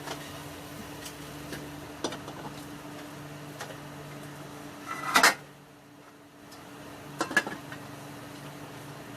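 Cooking pot and lid clattering, with a loud clatter about five seconds in and a shorter double clatter two seconds later, plus a few light clicks, over a steady low hum.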